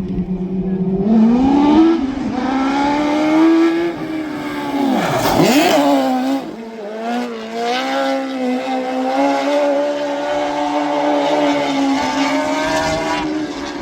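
Twin Hayabusa inline-four engines of a mini truck held at high revs on track, the pitch climbing about a second in. The truck sweeps close past about five seconds in, then the engines hold steady high revs with a slight waver.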